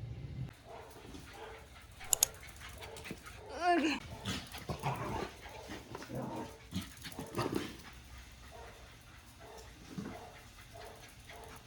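A pet dog whining and whimpering: a high wavering whine about four seconds in, then a string of short whimpers and yips. There are two sharp clicks about two seconds in.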